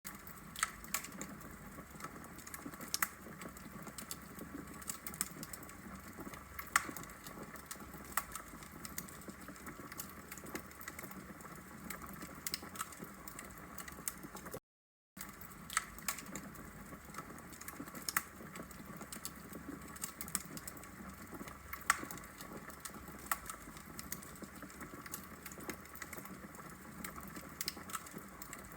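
Wood fire burning in a fireplace: logs crackling with sharp, irregular pops over a soft, steady hiss. The sound drops out for about half a second about halfway through.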